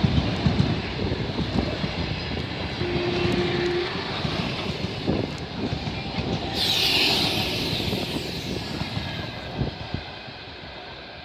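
Passenger train cars rolling past, their wheels clattering and knocking over the rail joints. About six and a half seconds in comes a burst of hiss lasting a few seconds. The sound grows quieter near the end.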